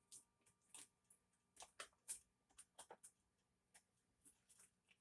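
Near silence: room tone with a few faint, irregular clicks and taps.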